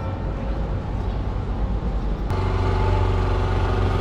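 Wind rumbling on the microphone of a moving bicycle, over city street traffic. About two seconds in, a steady hum of several tones comes in abruptly.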